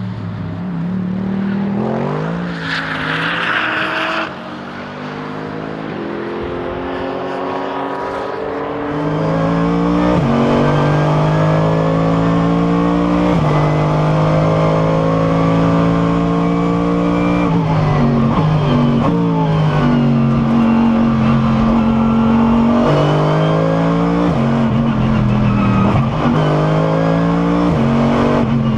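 Mercedes SLS AMG GT3's naturally aspirated V8 heard from inside the car at race pace: it eases off, then pulls hard from about nine seconds in, rising in pitch and dropping sharply at each upshift, with a quick step down around eighteen seconds. A short rasping noise sounds about three seconds in.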